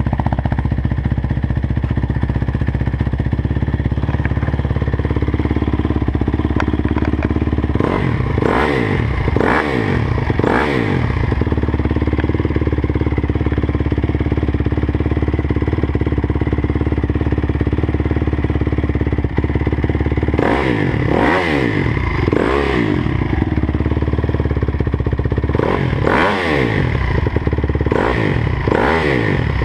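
2009 Honda CRF250R's single-cylinder four-stroke engine idling steadily, blipped on the throttle in quick bursts: three short revs about eight seconds in, three more just after twenty seconds, and several near the end. The weird noise it makes is left unnamed.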